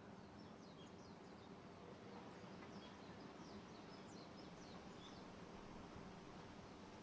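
Faint, quick bird chirps, each a short falling note, repeating for the first few seconds, over a low, steady outdoor background noise.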